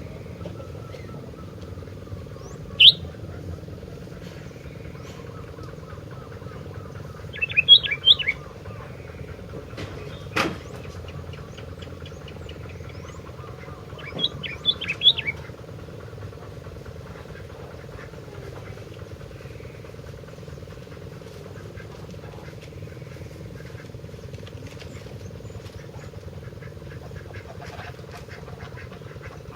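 Sooty-headed bulbul giving short bubbly calls in three bursts: one brief note about 3 s in, a phrase of several notes around 8 s, and another around 15 s. A single sharp click comes near 10 s, over a steady low hum.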